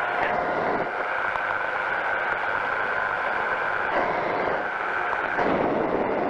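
Powered parachute's engine and pusher propeller running steadily in flight, with a steady drone and wind rush. The tone shifts briefly twice, about four and five and a half seconds in.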